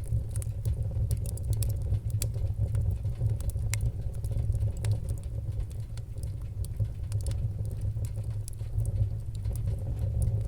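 Wood fire crackling, with frequent sharp pops and snaps scattered over a steady low rumble.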